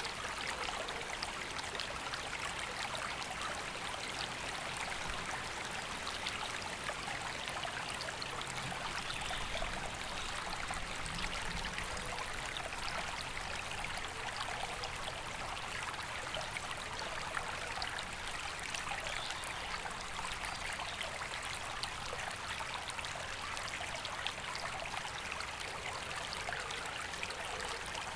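River flowing steadily: an even rush of running water with many small splashes.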